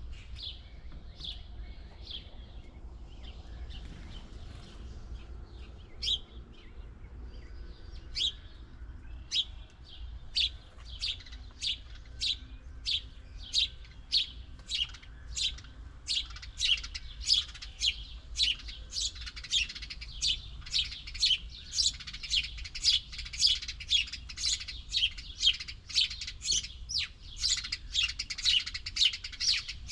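Small birds chirping in short repeated calls, sparse at first, then coming about twice a second from about a third of the way in and growing louder and denser toward the end.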